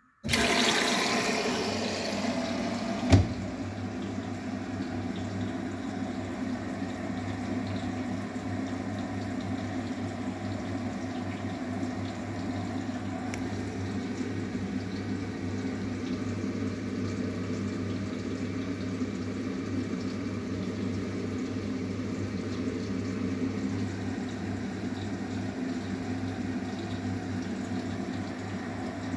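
Arçelik 9120M washing machine taking in water: a sudden rush of water as filling starts, easing off over the first few seconds. A sharp click follows about three seconds in, then a steady flow of water with a low hum under it.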